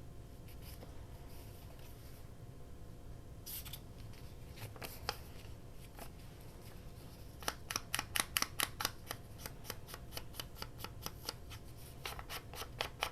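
Scissors snipping paper: a few separate snips, then a run of quick, sharp cuts from about halfway through. A faint steady hum sits underneath.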